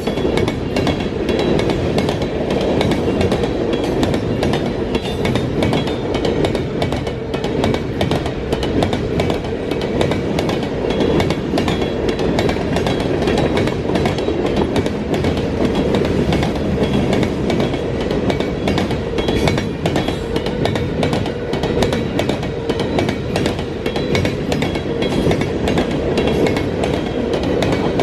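Freight cars of a CSX freight train rolling past at steady speed, wheels clicking over the rail joints and car bodies rattling without a break.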